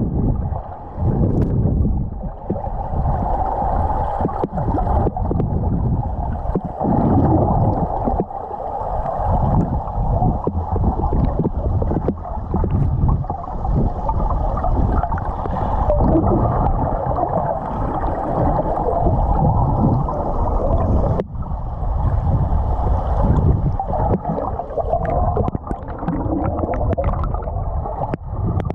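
Muffled gurgling and churning of water heard underwater, dull and without highs, with a brief lull about three-quarters of the way in.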